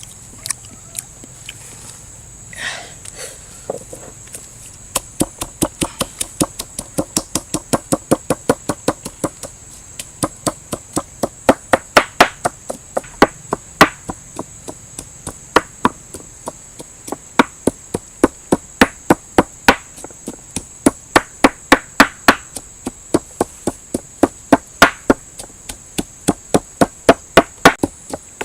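Rapid, even chopping strikes with a blade on a wooden board, three to four a second, most likely cutting up barbecued meat. A steady high-pitched hiss runs underneath.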